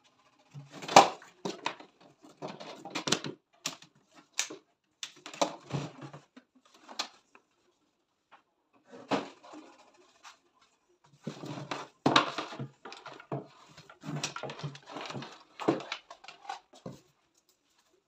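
Irregular clicks, knocks and rustles of things being handled, coming in bursts with a quiet pause around the middle.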